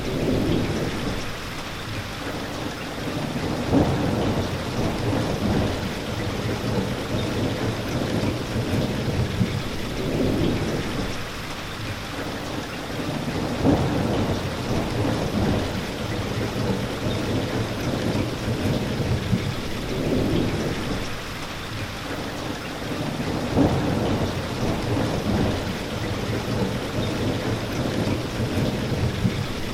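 Steady rain falling, with low rumbles that swell and fade every few seconds.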